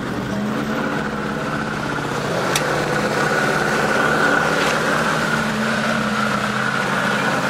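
Ford Landau's V8 engine idling steadily, with a steady high whine over it.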